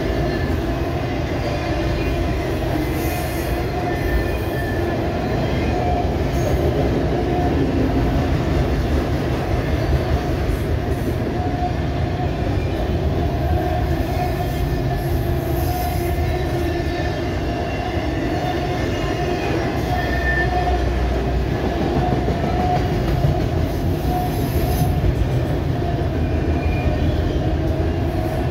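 Freight train of autorack cars rolling past: a steady rumble of steel wheels on the rails, with short high squeals coming and going.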